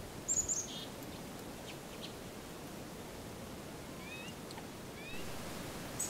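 High-pitched bird chirps: a quick pair about half a second in and another pair near the end, with a few faint short rising calls between, over a steady background hiss.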